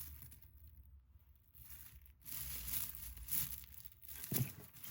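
Packaging crinkling and rustling as jewelry is handled and pulled out, louder in the second half, with a few sharp clicks near the end.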